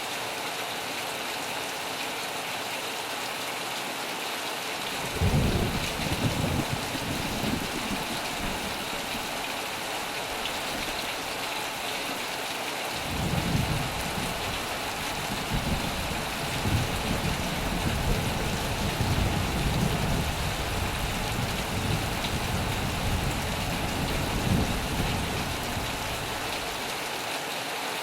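Steady heavy rain with thunder: a rumble breaks in sharply about five seconds in and dies away, then a longer rumble starts near the middle and fades out near the end.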